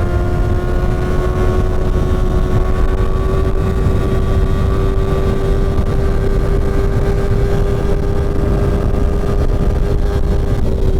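Kawasaki Ninja ZX-6R inline-four engine pulling at steady high revs, its pitch creeping slightly up, then falling as the revs drop near the end. A dense low rush of wind runs underneath.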